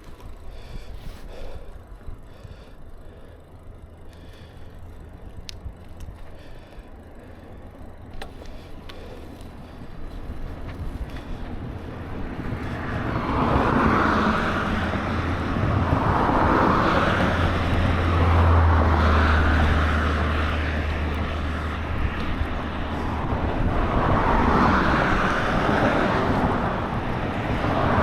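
Wind and road noise on a bicycle ride: fairly quiet at first, then a gusting rush that grows louder about halfway through, with a low engine drone from a vehicle that passes in the second half.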